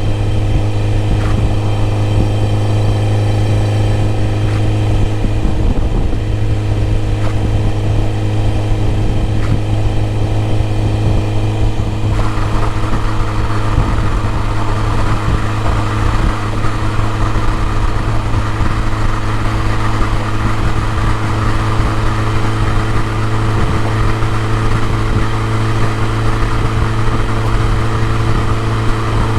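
BMW E30 M3's four-cylinder engine idling steadily at an even pitch. About twelve seconds in, a steady hiss joins over the engine note.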